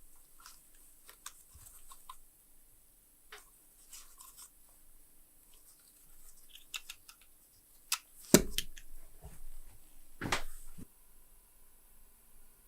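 Small metal clicks and handling noises from a metal trench-style lighter, with two louder, sharp, rasping strikes about eight and ten seconds in.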